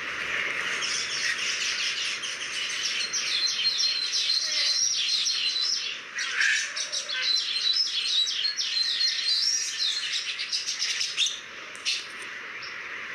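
Birds chirping and twittering continuously in a dense run of quick high calls, with a thin, level whistled note held several times.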